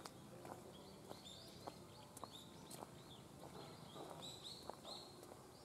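Small birds chirping faintly: many short, high chirps in quick succession, with a few light clicks.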